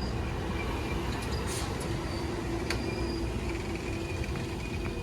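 Amtrak passenger train rolling slowly through the station: a steady low rumble with faint, thin squealing tones from the wheels and brakes.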